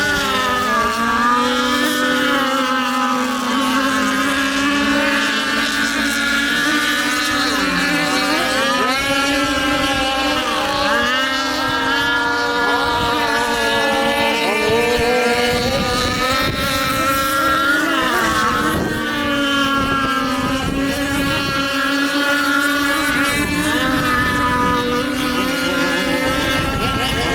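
High-speed motorboat engine running hard and steady, its pitch dipping briefly and climbing back a few times.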